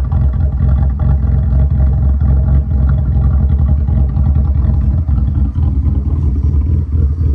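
Exhaust of a V6-swapped Mitsubishi Lancer Evolution X running at a steady engine speed through its newly fitted exhaust, a loud, deep drone with a fast pulsing note.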